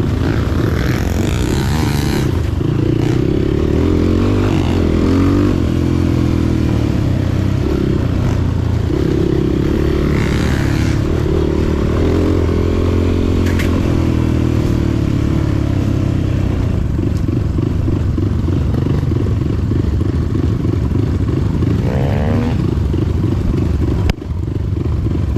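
Motorcycle engine running under way, its pitch rising and falling with the throttle and gear changes.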